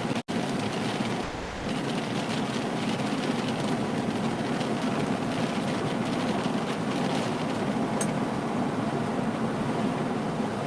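Steady roar of tornado wind and rain against a moving vehicle, heard from inside the cabin. The live-stream audio drops out for an instant right at the start.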